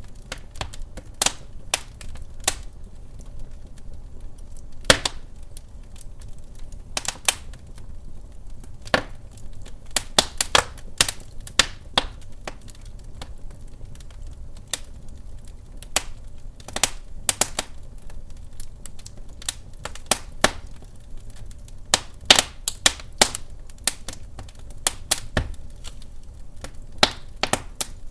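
Wood fire crackling in a fireplace: irregular sharp pops and snaps, sometimes several in quick succession, over a low steady rumble.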